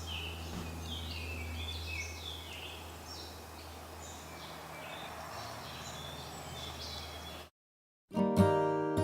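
Several short bird chirps and calls over a steady low hum. It all cuts off suddenly about seven and a half seconds in, and acoustic guitar music begins near the end.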